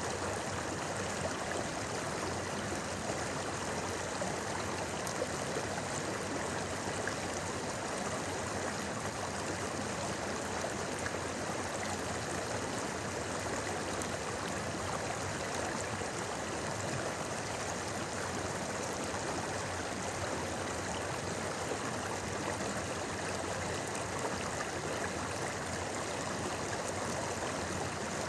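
A shallow, clear river murmuring over stones: a steady, even rush of flowing water.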